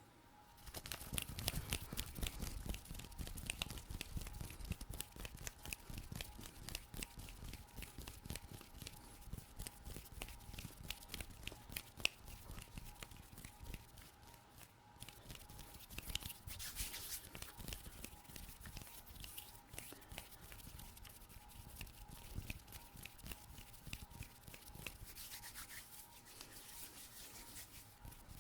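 Fast ASMR hand sounds close to a microphone: rubbing and scratching of skin, dense with quick ticks and clicks, starting about a second in, over a faint steady hum.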